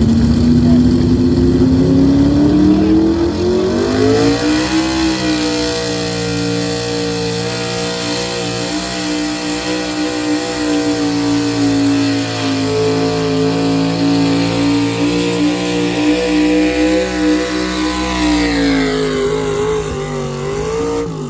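A pulling vehicle's engine revs up over the first few seconds and holds at high revs through a long pull. It backs off near the end.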